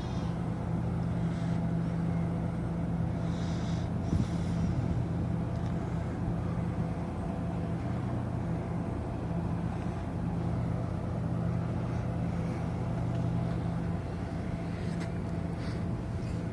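Cruise ship's machinery droning steadily, a low hum over a rumble, with a brief knock about four seconds in.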